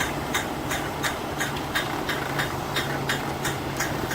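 Cement mixer truck running with its drum turning: a steady low engine hum with an even, rapid ticking about four times a second.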